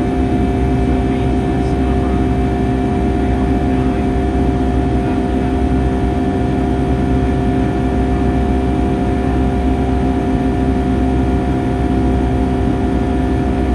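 Steady jet engine and airflow noise inside the cabin of a Boeing 757-300 in flight: an even low rumble with a few steady engine tones over it.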